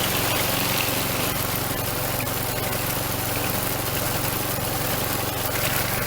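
Troy-Bilt string trimmer's flathead Briggs & Stratton four-stroke engine running steadily at idle. It is now running on the fixed fuel system, whose warped plastic carburetor housing is sealed with a doubled gasket.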